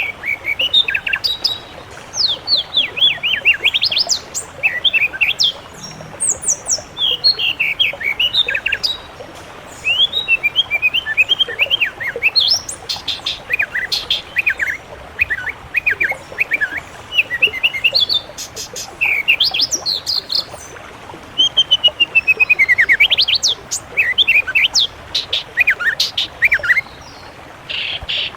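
Songbirds singing in rapid phrases of high whistled and chirping notes that sweep up and down, with short pauses between phrases.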